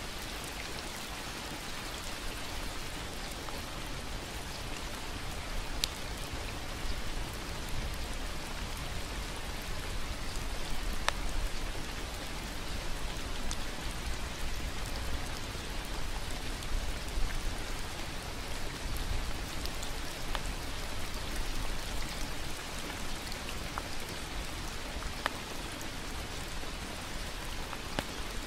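Steady rain, with now and then a single louder drip.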